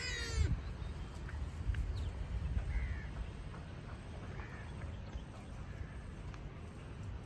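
A crow's harsh caw right at the start, then a few short, faint bird calls over a steady low rumble.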